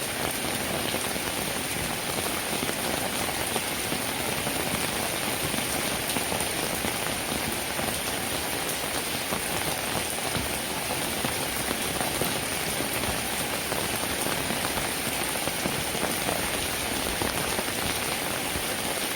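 Steady rain, a dense, even patter of drops that holds the same level throughout.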